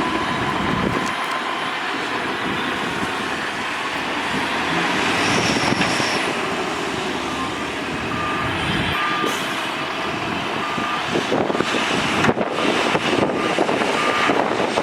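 Heavy earthmoving machinery running steadily, with a reversing alarm beeping at an even pace from about halfway through. Irregular knocks and rattles come in during the last few seconds.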